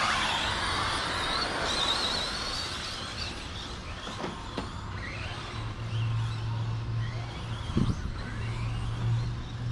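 A pack of RC stadium trucks launching off the start and racing, their motors whining and sliding up and down in pitch over the tyre and track noise.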